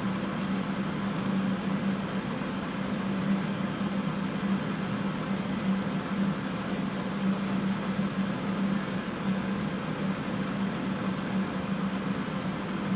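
Steady rushing of the soldering torch flame and fume fans, with a constant low hum, as solder is heated to flow on a sterling silver bezel.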